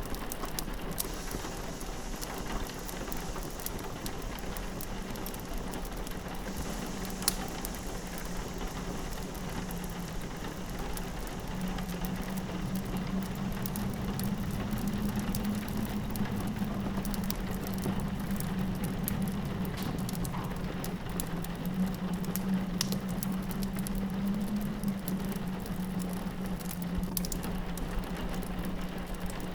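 Rain pattering against a window, mixed with the sharp pops and crackles of a wood fire, the strongest pop about seven seconds in. A low wind moan runs underneath and swells from about twelve seconds on.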